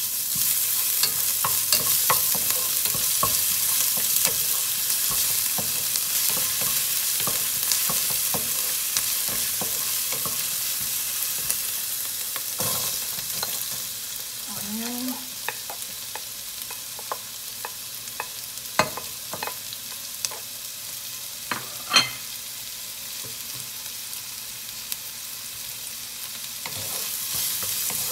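Minced ginger and garlic sizzling in hot oil in a nonstick pan, stirred with a wooden spatula. About halfway through, diced onion goes in and the sizzle drops quieter, and a few sharp knocks follow as the spatula works the pan.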